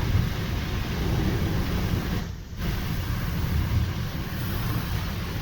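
Steady low rumble of a car driving, heard from inside the cabin, with tyre and road noise on a wet, slushy road. About halfway through, the sound briefly drops out for a moment.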